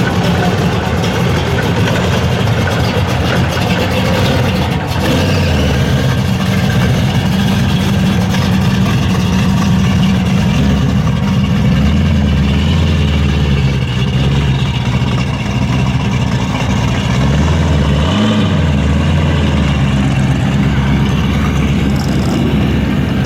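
V8 muscle car engines running at low revs with a deep, steady rumble, and a short rev late on.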